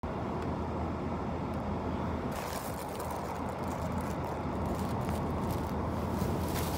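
Steady low rumble of a car's air conditioning running inside the cabin. Faint hiss and small clicks join in from about two seconds in.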